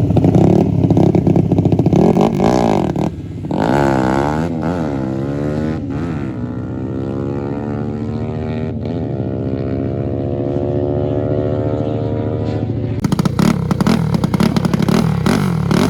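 Racing motorcycle accelerating hard through the gears, its engine note climbing and dropping back at each upshift, about three times, then holding a long rising pull. Near the end a loud engine close by comes back in with an uneven revving.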